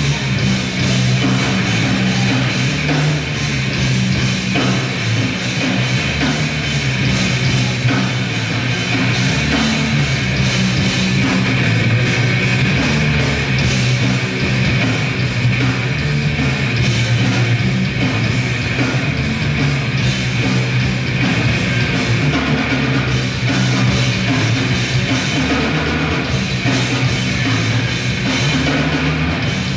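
Grindcore band playing live at full volume: distorted electric guitars and bass over fast, dense drumming, without a break.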